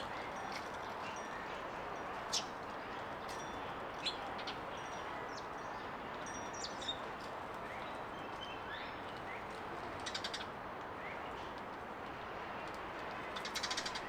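Small garden birds giving short, sharp chirps and a couple of quick trilled series, heard over a steady background hiss.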